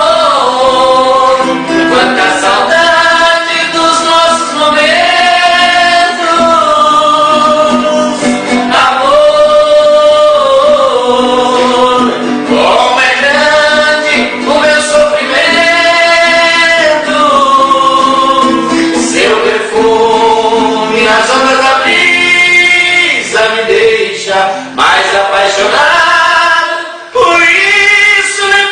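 Music: voices singing a sertanejo love song together in long, held, sliding notes.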